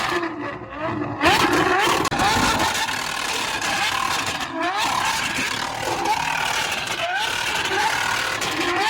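Car engines revving over and over at a car meet, each rev a short rising sweep in pitch about once a second, with crowd chatter underneath.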